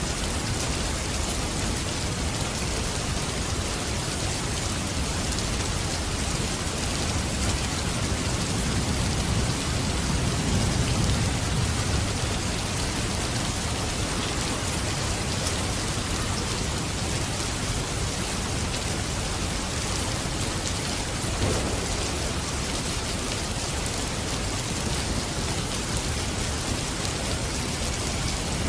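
Steady rain falling as a continuous even hiss. A low rumble swells up and fades away about ten seconds in.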